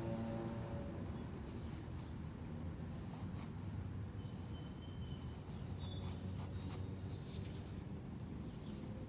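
Drawing strokes on a journal page, the tip scratching across paper in short irregular strokes while the marigold's stem and leaves are sketched.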